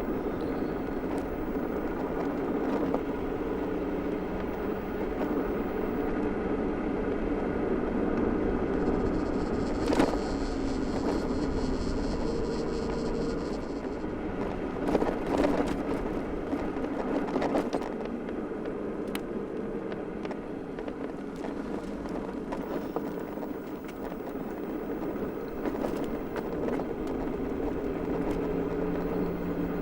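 Super Soco TC Wanderer electric motorcycle riding along a road: a steady hum from the electric hub motor mixed with tyre and wind noise. A few sharp knocks come about a third and half way through.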